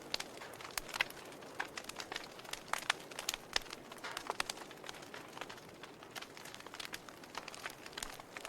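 Wood fire crackling in a fireplace: irregular sharp pops and snaps, several a second at times, over a soft steady hiss.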